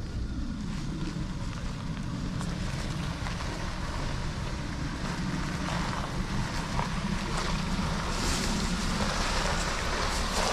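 Mercedes off-road vehicle's engine running with a steady low rumble, mixed with wind noise on the microphone, growing somewhat louder toward the end.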